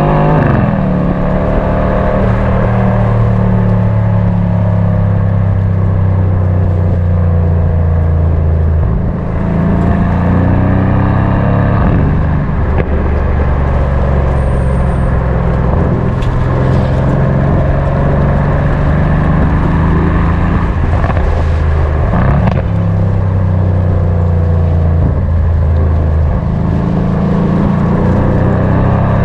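Mercedes-AMG C63 S coupe's twin-turbo V8 under way, a steady low drone with the revs climbing and dropping several times through the gears, and a few short sharp cracks among them.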